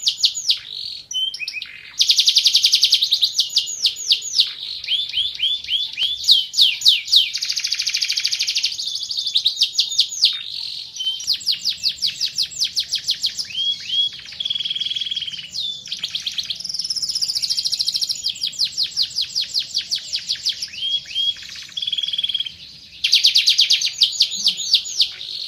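Domestic canary singing a long, fast song of rapid trills. Each phrase is a quick run of repeated rising and falling notes, one running straight into the next with only a few short breaks.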